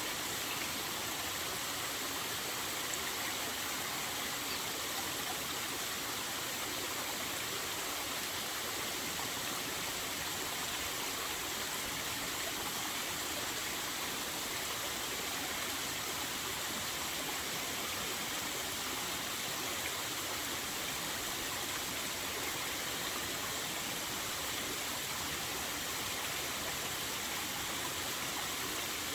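Small waterfall at fairly low flow, its water falling and splashing in a steady, even rush.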